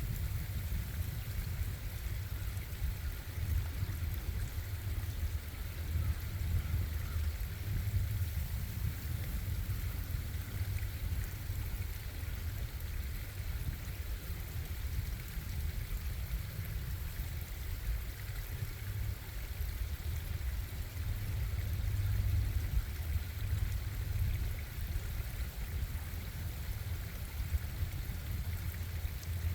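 Flowing water of a stream running steadily, with a low rumble underneath.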